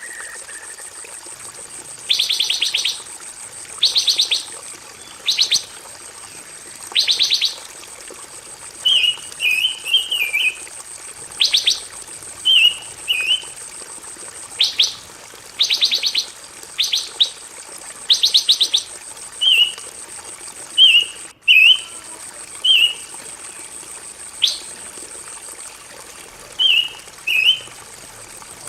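A pancawarna songbird singing: short buzzy trills about half a second long alternating with quick chirping phrases, repeated every second or two. A steady thin high tone runs underneath.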